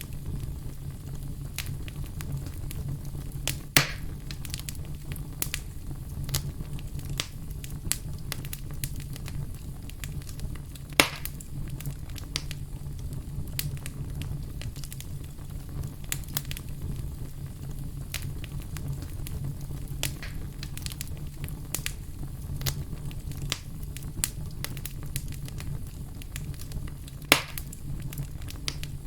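Wood fire in a fireplace burning with a steady low rumble and constant small crackles. Three louder pops come about four seconds in, around eleven seconds, and near the end.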